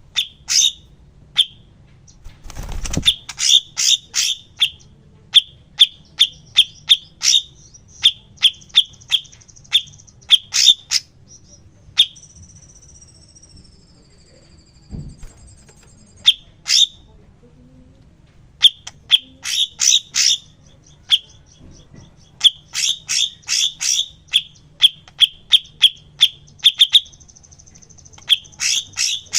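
Cucak cungkok (blue-winged leafbird) singing: runs of sharp, quick chip notes in bursts, broken by a thin falling whistle about halfway through and short buzzy trills.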